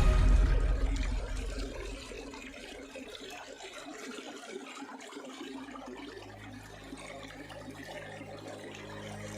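Background music fading out, leaving running water trickling and splashing; a low steady hum comes in about five seconds later.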